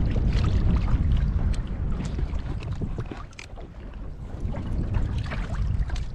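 Water sloshing and splashing against a kayak hull, with many small irregular splashes and ticks, over wind rumbling on the microphone.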